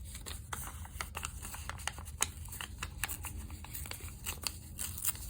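Paper and craft scraps being handled: rustling and crinkling with many small, irregular ticks.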